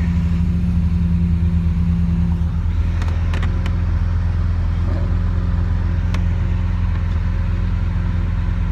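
Lamborghini Aventador SV's V12 engine running steadily at low revs, heard from inside the cabin as a deep, even drone. Its tone shifts slightly about two and a half seconds in, with a few faint ticks over it.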